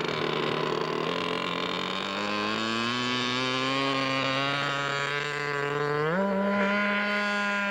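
Glow-fuel YS-60 engine of a radio-controlled scale Heinkel seaplane running as one steady pitched note. The note sags a little, then rises sharply as the throttle is opened about six seconds in, and holds at the higher speed.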